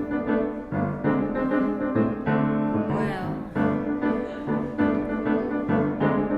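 Piano playing the opening of the song's accompaniment, chords struck in a steady rhythm with a quick run of notes about three seconds in.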